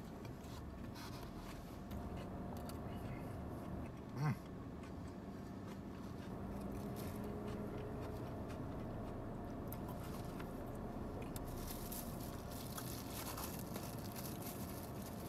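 A man chewing a mouthful of taco over a steady background hum inside a car, with a brief hummed 'mm' about four seconds in. Near the end a small plastic bag crinkles as a lime is handled.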